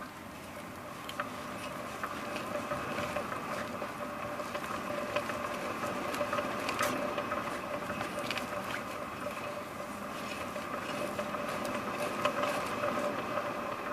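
Renault Logan on the move: steady running and road noise with a faint steady whine and scattered light clicks and rattles.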